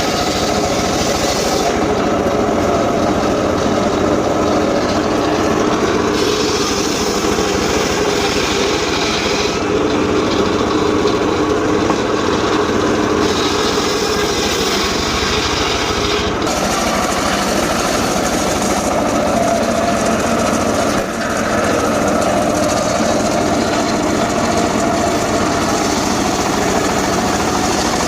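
Engine-driven saw running steadily while cutting gmelina wood, with a harsher, higher cutting noise that comes and goes in spells of a few seconds.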